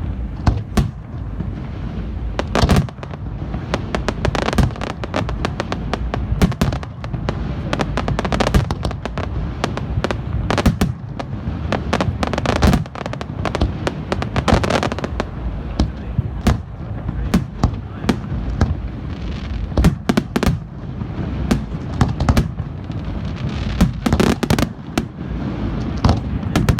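Aerial fireworks display going off continuously: rapid, irregular bangs and booms of shells bursting, over a dense low rumble.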